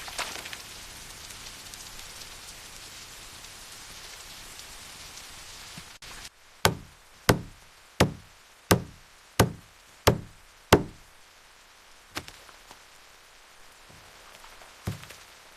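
Steady rain falling, then, after a sudden change about six seconds in, seven sharp knocks in an even rhythm about two thirds of a second apart, with two fainter knocks later.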